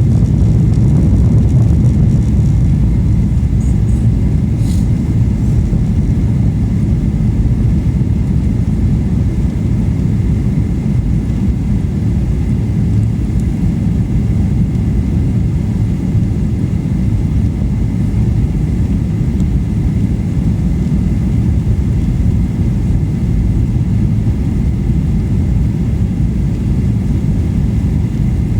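Airliner cabin noise from a passenger seat: a steady low rumble of the jet engines and airflow, with a faint steady whine above it.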